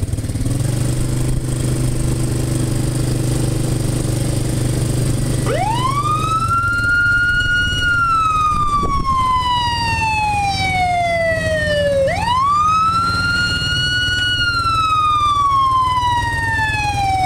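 Fire truck siren wailing, starting about five seconds in: each cycle climbs quickly and then slides slowly down over about four seconds, repeating three times. A steady engine runs underneath until partway through.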